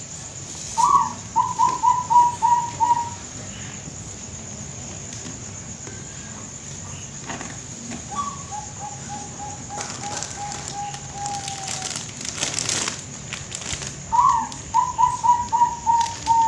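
Bangkok perkutut (zebra dove) singing three cooing phrases. Each opens with a note and runs into a fast string of short, evenly spaced coos; the middle phrase is quieter, longer and lower, sinking a little at its end. A steady high whine sits underneath.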